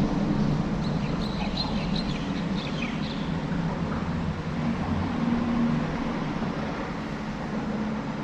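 An engine running with a steady low drone, with a few short bird chirps about one to three seconds in.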